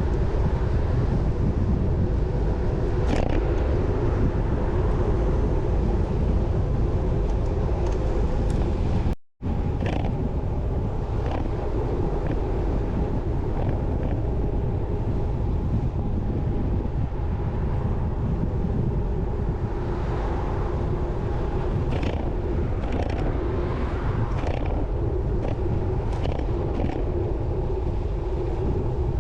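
Steady rumble of wind buffeting the microphone while cycling on the road, with road and traffic noise and a few faint ticks. The sound cuts out for an instant about nine seconds in.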